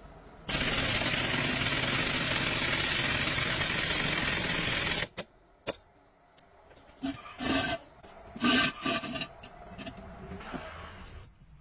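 A loud, steady hiss starts about half a second in, runs for about four and a half seconds and cuts off abruptly. Sharp clicks and ringing metallic clanks of tools or axle parts being handled follow.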